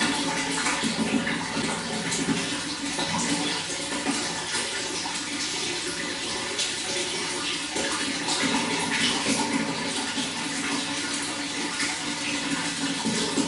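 Running water flowing and splashing in a steady, continuous rush with constant small spatters.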